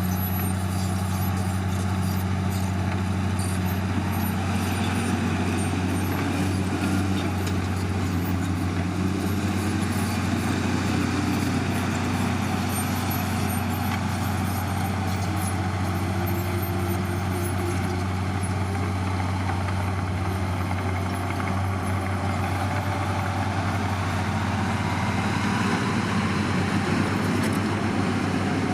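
Heavy diesel engine of earthmoving equipment running steadily with a deep drone, its pitch rising and falling a few times.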